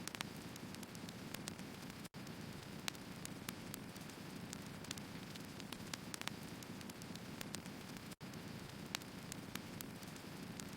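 Wood fire burning: frequent small crackles and pops from the logs over a steady low rush of the flames. The sound cuts out for an instant twice.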